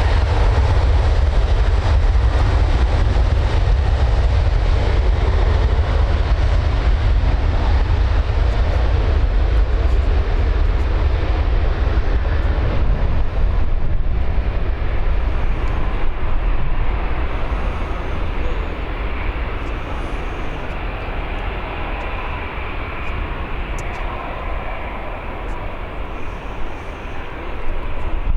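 Jet engines of a departing Boeing 737-800, CFM56-7B turbofans, a steady heavy rumble that slowly fades and loses its hiss in the second half as the aircraft moves away.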